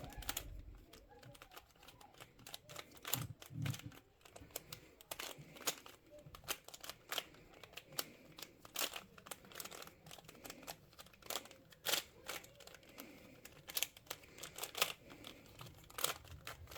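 Plastic puzzle cube being turned by hand during a solve, its layers clicking and rattling in quick, irregular runs.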